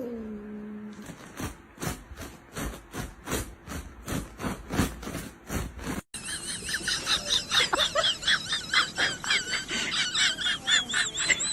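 Animal calls in two parts: first a run of short repeated cries, about two or three a second; then, after an abrupt cut, rapid high-pitched chirping.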